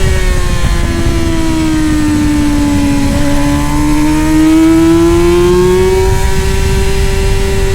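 Middleweight superbike racing motorcycle engine running hard. The engine note sags for about three seconds, then climbs back up and holds, over a steady low rushing noise.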